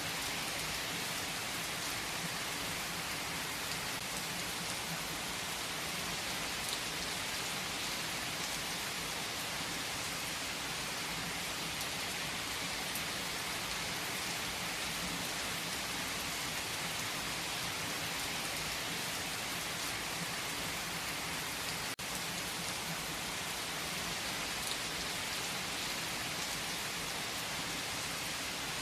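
Steady heavy rain: an even, unbroken hiss of rain falling on surfaces, with no thunder standing out. A single brief click falls about three quarters of the way through.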